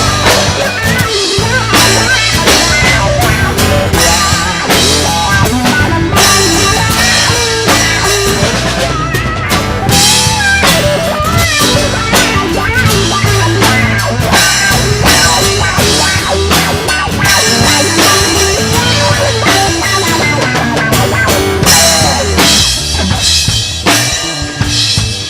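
Live country band playing an instrumental break between verses, the drum kit prominent with bass drum, snare and rimshots, and a wavering lead line over it.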